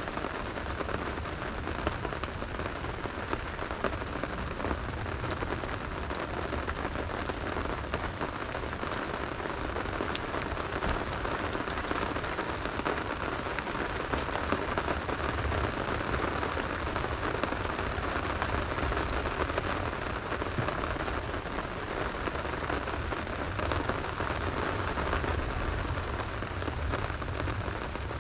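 Steady rain falling and pattering on surfaces, with a few sharp campfire crackles standing out now and then.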